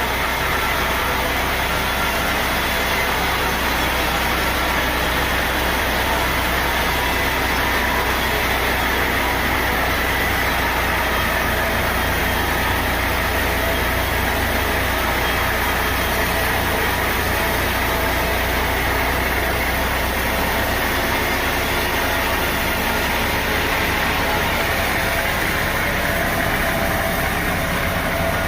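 Sawmill machinery running steadily, a continuous engine-like hum under an even noisy hiss, with no separate strokes or pauses.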